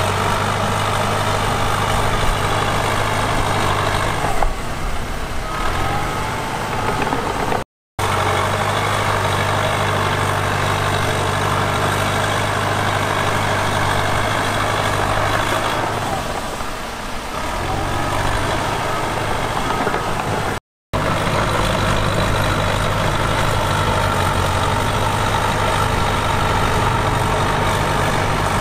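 Heavy diesel engine of earthmoving equipment running with a steady low drone. The drone weakens twice for a couple of seconds, and the sound cuts out completely for a split second twice.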